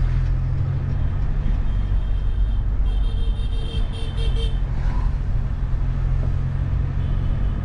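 Mahindra Scorpio's engine and road noise heard from inside the cabin while driving, a steady low drone. A few seconds in, a high-pitched tone beeps several times in quick succession over it.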